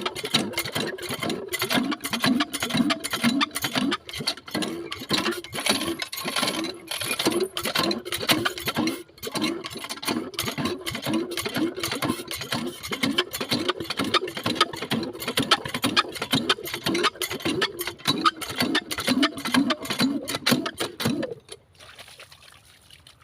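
Single-cylinder diesel engine driving a water pump, running with a low, even thudding beat of about two to three strokes a second and a clatter over it. It cuts off suddenly near the end.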